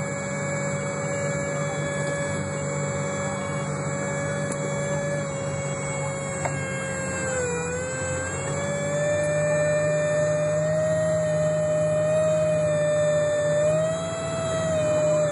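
A bus's steady high-pitched whine, heard inside the bus over the low running noise, its pitch dipping briefly about halfway through and then drifting back up.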